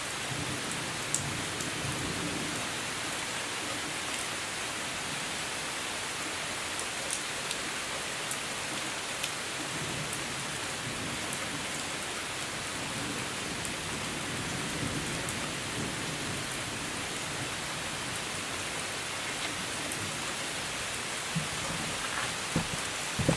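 Steady rain falling, with individual drops ticking sharply here and there and a few louder taps near the end.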